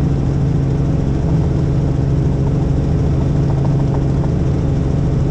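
Helicopter engine and rotor noise, a steady loud drone with a low hum.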